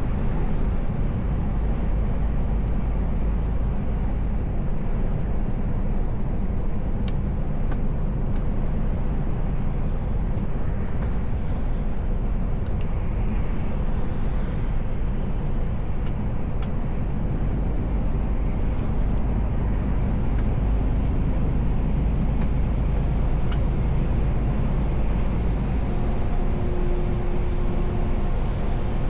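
Steady low drone of a Mercedes Actros L truck under way, heard from inside the cab: engine and road noise with no change in pace, and a few faint clicks.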